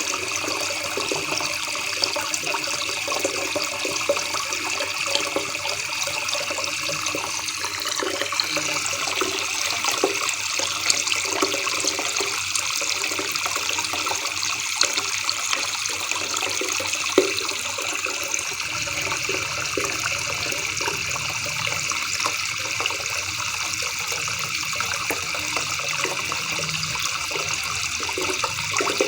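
River water babbling in a steady stream, with many small splashes and gurgles.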